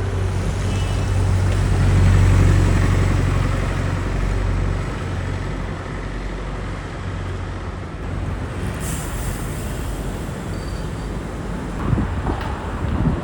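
Street traffic, with a heavy vehicle's engine rumbling, loudest about two seconds in, and a short hiss about nine seconds in.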